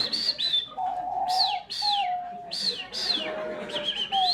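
Two people imitating bird calls with their mouths. One whistles a run of high chirps that each swoop up and then fall. The other gives a lower, wavering cooing call under them, rising and falling in pitch.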